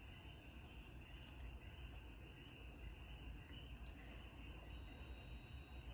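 Near silence: faint room tone with a steady high-pitched whine and a low rumble.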